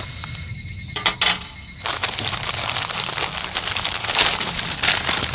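Dense, irregular crackling and rustling noise, with a couple of sharp clicks about a second in and the crackle thickening after about two seconds.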